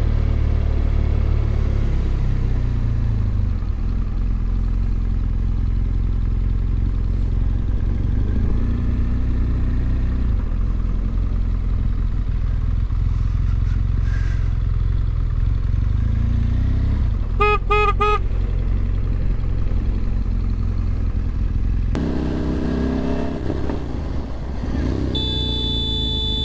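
Motorcycle riding, with a steady low rumble of engine and wind on a helmet or bike camera. About two thirds of the way through, a vehicle horn gives a few quick beeps.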